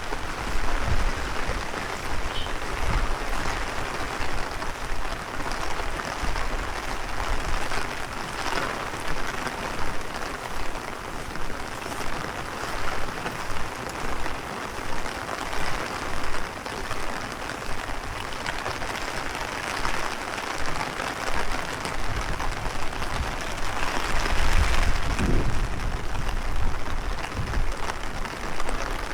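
Heavy rain falling steadily, with gusts of strong wind buffeting the microphone, the heaviest gusts near the end.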